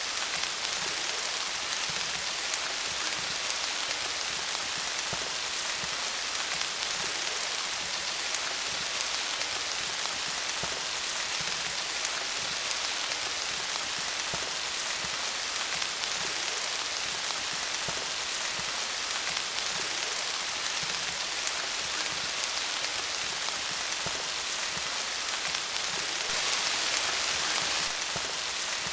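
Steady rain falling on leaves, a dense patter of many small drop hits, swelling slightly near the end.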